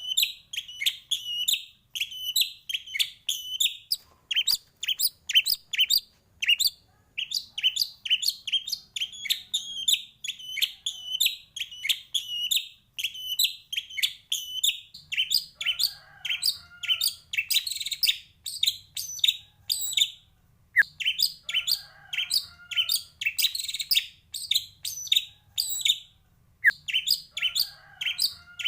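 White-rumped shama (murai batu) singing continuously: fast, repeated high notes several a second, with more varied phrases mixed in from about halfway through.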